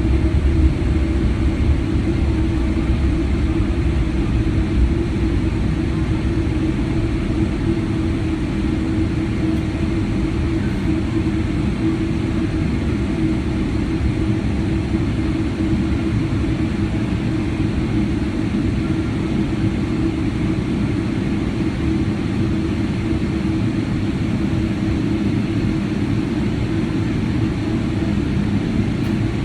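Steady cabin rumble and hum of a Boeing 777-300ER moving on the ground after touchdown, engines and airframe noise heard from inside the passenger cabin, a little louder in the first second then even.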